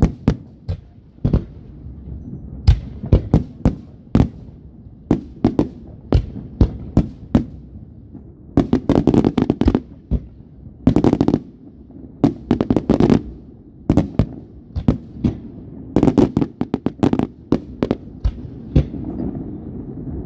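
Fireworks going off: a steady run of sharp bangs over a continuous low rumble, broken by several dense runs of rapid crackling pops.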